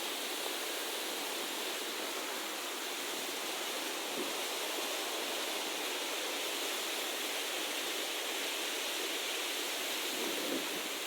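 Steady, even rushing hiss with no distinct events, with a slight low swell near the end.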